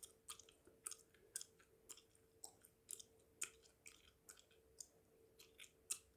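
Close-miked mouth chewing bubblegum: soft, wet smacks and clicks, about two a second.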